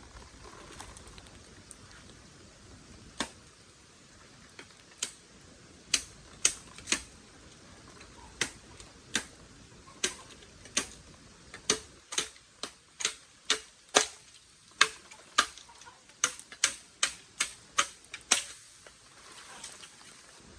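A series of about twenty short, sharp clicks or snaps. They are sparse at first, then come at an irregular pace of about two a second through the second half, stopping shortly before the end.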